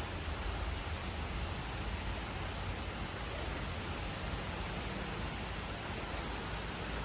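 Steady rain falling during a thunderstorm, an even hiss with no thunder claps.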